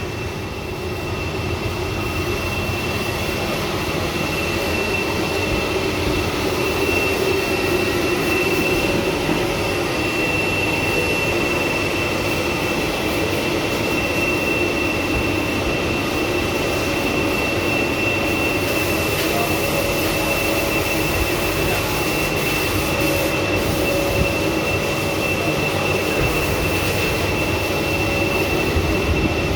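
Car-wash cleaning machinery running steadily, a continuous whooshing motor noise with a constant high-pitched whine.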